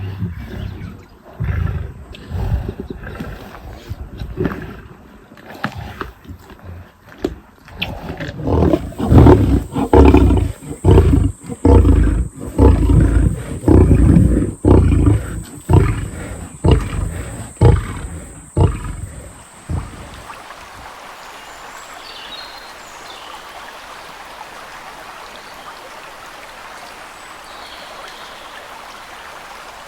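A lion roaring: a run of deep calls about once a second that builds up and then tapers off into shorter grunts. The roaring stops about two-thirds of the way through, leaving a steady hiss of noise.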